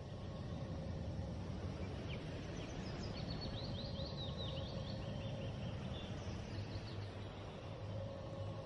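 Outdoor ambience: a steady low rumble with a short, quick run of bird chirps about two to five seconds in.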